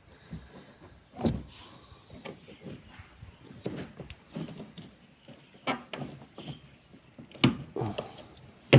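Scattered knocks, clicks and scrapes of hand work on a car pedal's glued-on rubber cover, irregular, with a sharper knock near the end.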